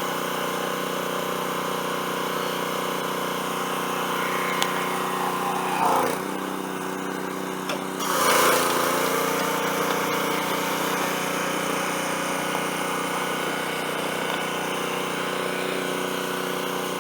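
Honda-powered Simpson gas pressure washer running steadily, with two brief louder surges about six and eight seconds in.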